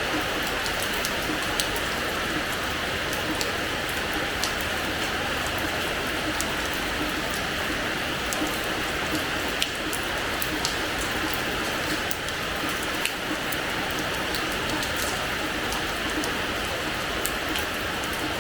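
Steady rain falling on a hard terrace floor, a continuous hiss with scattered sharper ticks of individual drops hitting close by.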